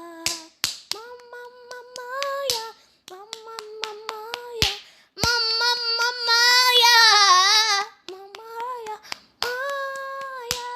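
A child singing long held wordless notes, with a wavering, ornamented run in the middle, over sharp rhythmic hand claps.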